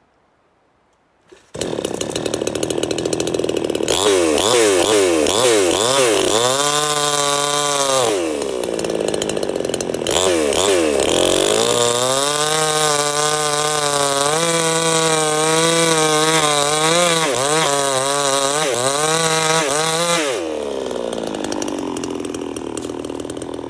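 Two-stroke chainsaw starting about a second and a half in and idling. It is then revved hard twice, its engine speed wavering up and down while held high, and drops back to a steady idle near the end.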